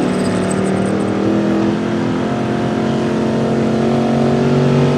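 Gasoline 4x4 pickup truck engine running hard at high revs, its pitch creeping slowly upward and getting a little louder.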